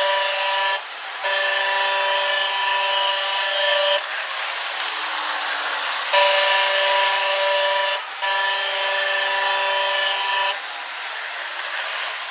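Electronic horn sound of a Lionel GP-7 O-gauge model diesel locomotive sounding in four blasts, a shorter then a longer one twice over, on top of the steady running noise of the model's motor and wheels on the track. The sound has no deep bass.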